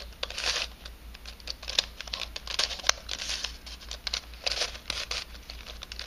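Pieces of a 3D-printed nylon helicopter cube twisty puzzle being turned by hand: irregular scraping and clicking as the parts slide and snap against each other.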